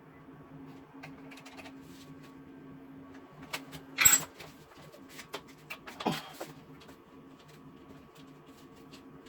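A few sharp knocks and clicks, the loudest about four seconds in and another about six seconds in, over a steady low hum.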